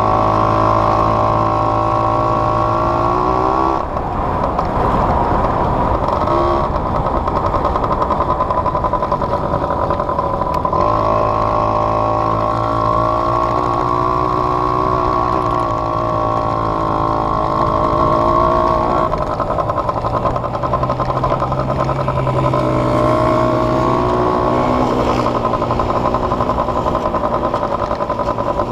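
Small off-road vehicle engine running hard under the rider, held at steady revs for several seconds at a time, with rougher stretches where the revs change.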